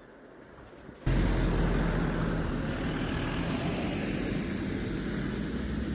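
A motor vehicle's engine running steadily, a low drone with an even rushing noise over it. It starts abruptly about a second in, after a second of faint clicks.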